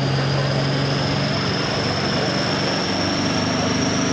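A turbocharged diesel pulling tractor's engine running hard under load. A high whistle climbs slowly and steadily in pitch over a low, steady engine note.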